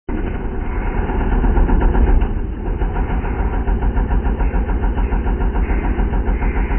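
D'Amore Engineering AF-15 subwoofers in small sealed boxes playing a deep, loud bass note that throbs in a rapid, even pulse, sounding much like a running engine.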